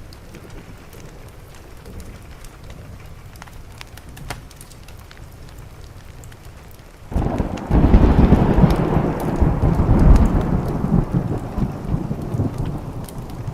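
Steady rain with scattered faint crackles; a little over halfway in a loud clap of thunder breaks in suddenly and rolls on as a deep rumble that slowly fades.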